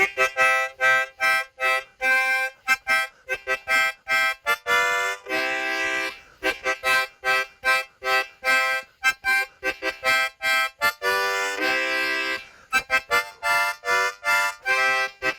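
Harmonica playing a lively tune of quick, short notes, with two long held chords, one about a third of the way in and one about three quarters in.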